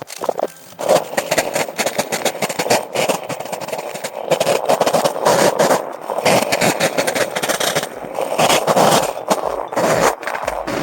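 Chainsaw running and cutting through a dry, fallen pine log, its engine note swelling and easing as it bites into the wood.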